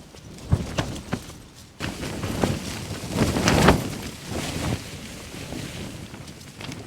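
Gale-force wind gusting against a Hilleberg Akto tent, the fabric shaking in uneven surges, with a few sharp knocks in the first second or so and the strongest gust a little past the middle.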